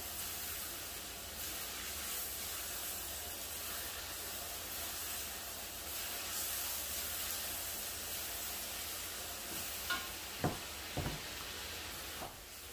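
Cubed pork and onion sizzling as they fry in the pork's own rendered fat in a wok, stirred with a wooden spatula. A few light knocks of the spatula against the pan come near the end.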